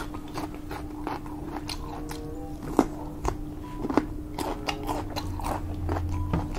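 A person chewing and biting air-fried pork belly (liempo): irregular wet mouth clicks and smacks.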